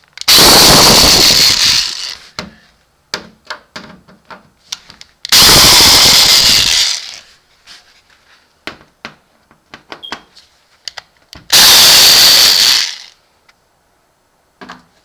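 Black & Decker drill-driver running in three bursts of about one and a half seconds each, backing screws out of an oil boiler's top panel, with small clicks and taps between the bursts.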